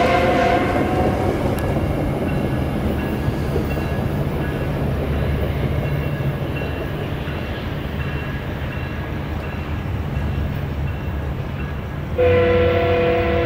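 A train at the station with its locomotive running in a steady low rumble. A multi-chime air horn ends about half a second in and sounds again near the end, one chord of several notes held.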